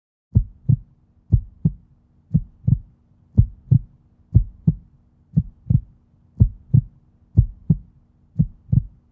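Heartbeat sound effect: paired low thumps (lub-dub) repeating about once a second, starting just after the opening silence.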